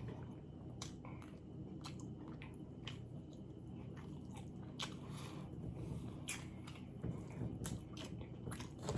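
A person chewing and biting into an Italian beef sandwich, with wet mouth sounds and scattered soft clicks.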